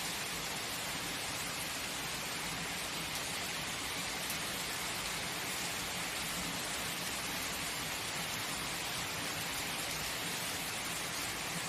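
Steady heavy rain falling, an even hiss of drops with no breaks.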